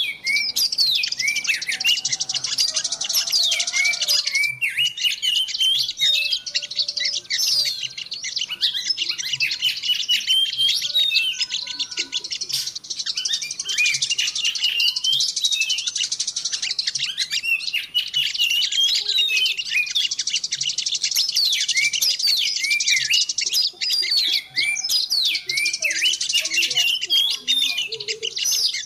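Dense, unbroken twittering of many small birds at once, rapid high chirps and short sweeping notes overlapping: a lure recording of small songbirds played to draw wild birds in.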